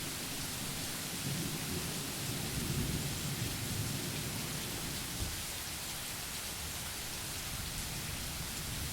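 Steady hiss of rain with a low rumble of thunder that swells over the first few seconds and dies away about five seconds in.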